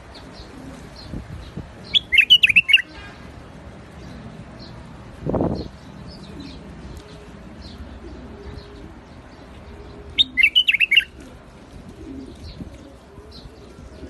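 White-eared bulbul singing: two short, loud phrases of about six quick, bubbling notes, one about two seconds in and one about ten seconds in, with faint chirps between. A soft low thud comes about five seconds in.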